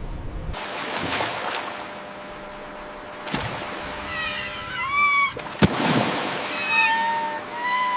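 Sea wash with a few drawn-out, wavering, mewing animal calls from about four seconds in, and a sharp slap just after halfway.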